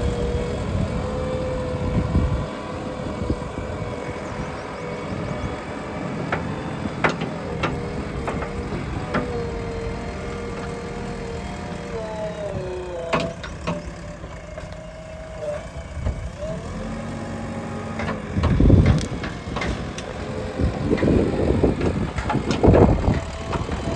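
Diesel engine of a JCB backhoe loader running steadily; its pitch dips and recovers about halfway through. Sharp metallic clanks come through at times, with heavy thumps near the end.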